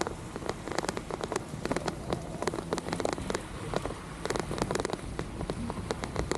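Rain falling, with many drops striking close to the microphone as sharp, irregular clicks over a steady low rumble.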